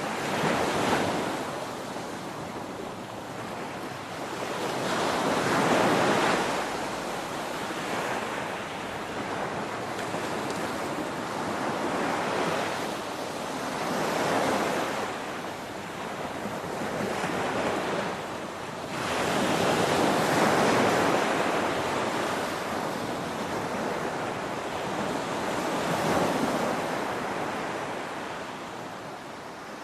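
Ocean waves crashing on a shore: a continuous rushing hiss that swells and falls again every few seconds as each wave breaks and washes in.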